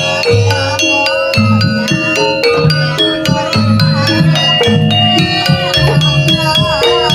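Jaranan gamelan music: quick struck notes on metallophones over steady low notes, with a wavering melody line above.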